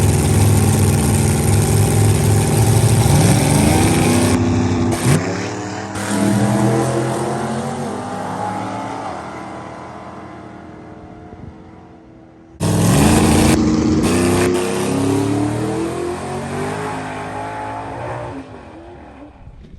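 565 cubic-inch big-block Chevrolet V8 in a drag truck running hard and revving, its pitch climbing a few seconds in and then dying away. After a sudden cut about two-thirds of the way through, a second run climbs and fades the same way.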